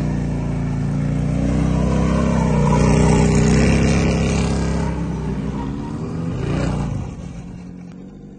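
Motorcycle engine running hard under throttle, its pitch rising and falling as the revs change, then dropping off and fading about seven seconds in.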